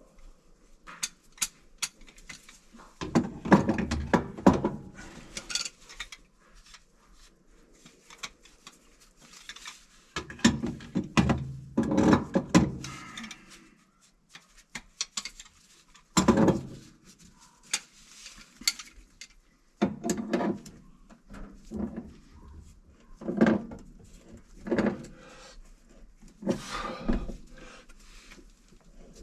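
Intermittent metallic clanks, knocks and rattles of tools and parts being handled during plumbing work, in scattered clusters with quieter gaps.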